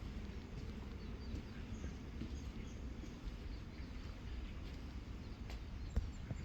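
Faint, short, high bird chirps over a steady low rumble, with a couple of sharp clicks near the end.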